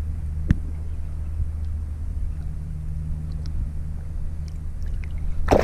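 Steady low wind rumble on the microphone, with a single sharp click about half a second in and a short noisy burst near the end.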